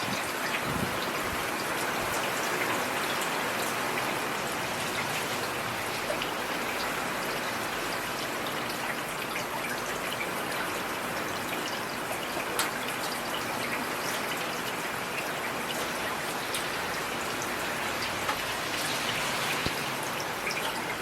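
Heavy rain falling steadily, an even hiss with a few sharper drop ticks scattered through it.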